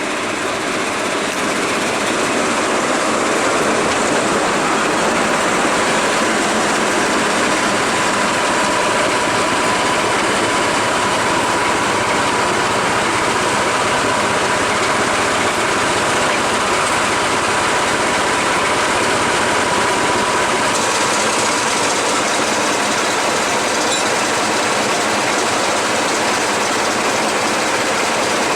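Train running along the track: a steady rushing rail noise that builds over the first few seconds, with a faint high whine through the middle.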